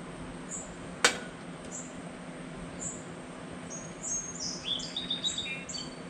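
Songbirds chirping: a short high chirp repeats about once a second, and near the end a quick run of whistled notes steps down in pitch. A single sharp click about a second in, over a faint low steady hum.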